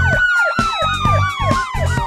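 A fast yelping police siren effect, rising and falling about four times a second, over the instrumental intro of a children's song with a steady drum beat. A long held tone slowly falls in pitch across it.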